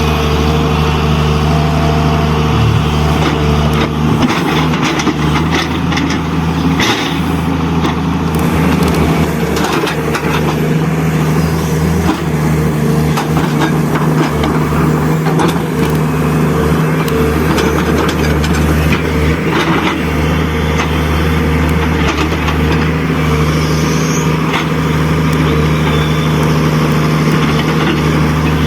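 Radio-controlled model loader and dump trucks working in sand: a steady low engine-like drone that thins out for a few seconds at a time, with scattered scraping and clicking.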